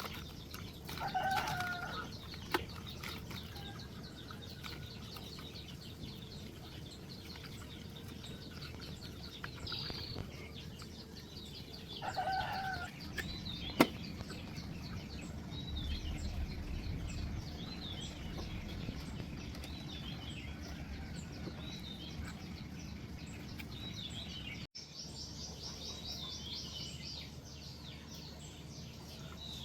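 Small birds chirping on and off, with a chicken giving two short calls, about a second in and again about twelve seconds in. A few sharp clicks are heard among them.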